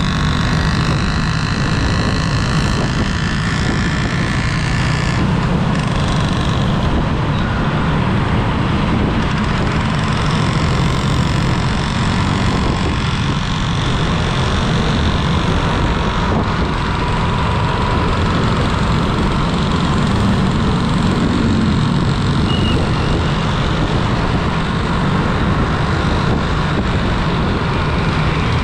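A vehicle on the move: steady engine and road noise with a low, constant rumble. A high whine sounds for the first five seconds and then stops.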